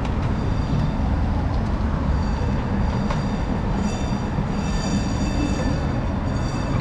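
Streetcar rolling along its rails with a high-pitched wheel squeal that starts about two seconds in and fades near the end, over a steady street-traffic rumble.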